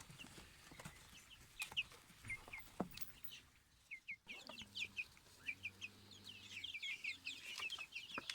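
Fayoumi chickens peeping: many short, high, falling notes, scattered at first and crowding into a busy chatter after about four seconds. Faint overall.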